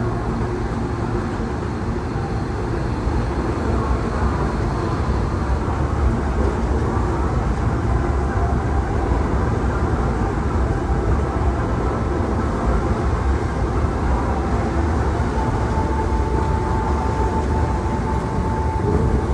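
Hankyu 1000 series eight-car electric train pulling out of the platform and gathering speed past the listener: a steady rumble of wheels and running gear. A steady tone joins about three-quarters of the way through.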